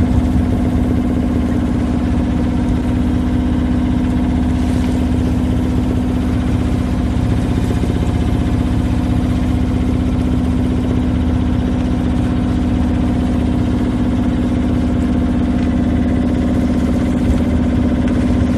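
A sailboat's auxiliary engine running steadily at constant speed, a strong low hum with no change in pitch or level.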